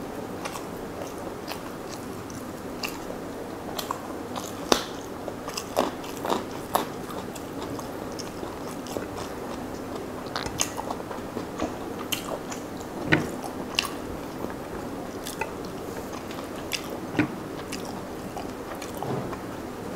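Close-up mouth sounds of a person chewing mouthfuls of rice and curry eaten by hand, with many short crunches and wet clicks scattered through; the loudest come about 5, 6, 13 and 17 seconds in.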